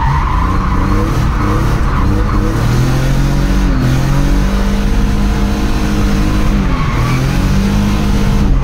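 BMW E30's swapped-in M30B35 3.5-litre straight-six revving up and down under load while the car drifts, heard from inside the cabin. The tyres screech in the first second or so, then the engine note carries on, rising and falling with the throttle.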